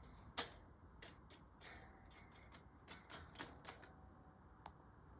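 Faint, irregular light taps and clicks, about half a dozen spread over the few seconds, from a pet starling pecking and stepping about on a hard surface.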